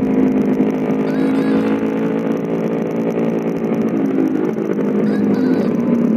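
Motorcycle engine running at a steady cruising speed, holding an even pitch, heard from the rider's seat.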